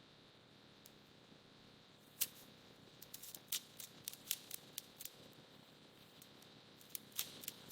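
A dozen or so short, sharp clicks at irregular intervals over a quiet background, mostly bunched in the middle with a few near the end.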